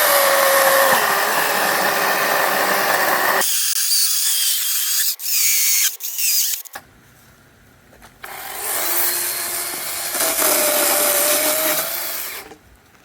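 A power saw cutting through a downed tree on the trail, in two runs: one at the start lasting a few seconds, then a pause, then a second cut about eight seconds in. Its motor pitch sags and recovers as it bites into the wood.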